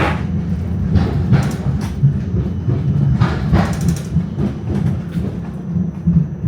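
Tram running along its tracks: a steady low rumble of steel wheels on rail, broken by several short sharp clatters and rattles.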